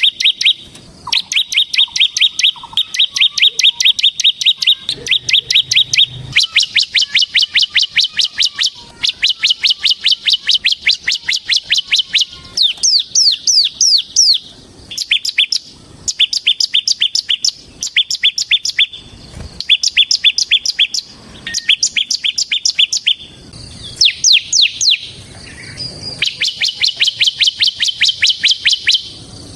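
Bar-winged prinia (ciblek) singing in its rapid 'ngebren' style: long runs of sharp, evenly repeated notes, several a second, in phrases of a few seconds with short pauses. A couple of phrases are quick falling whistles.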